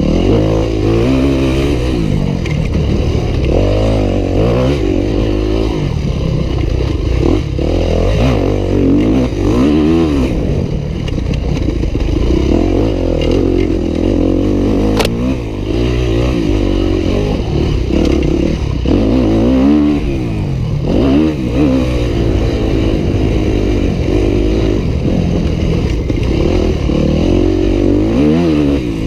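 Yamaha YZ250F four-stroke single-cylinder dirt bike engine revving hard, its pitch climbing and dropping over and over every second or two as it accelerates and backs off.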